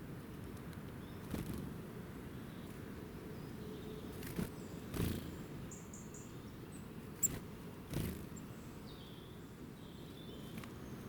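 Outdoor ambience with a steady low rumble, a few short, high bird chirps around the middle and near the end, and about six soft knocks scattered through it.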